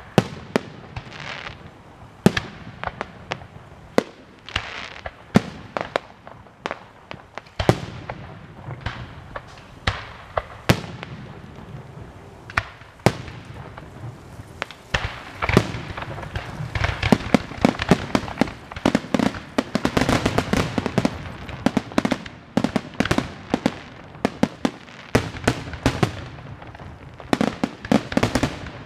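Aerial fireworks shells bursting one after another in sharp bangs, scattered at first, then a dense run of bangs and crackling about halfway through.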